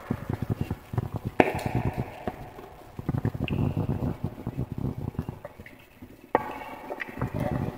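Wood fire crackling: a dense run of small pops and snaps, with a louder sharp crack about a second and a half in and another about six seconds in.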